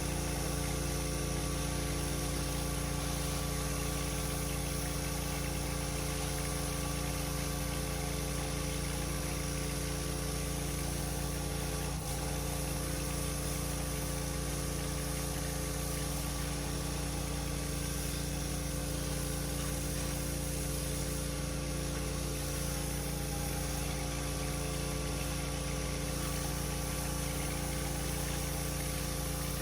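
Pressure washer's petrol engine running at a steady speed.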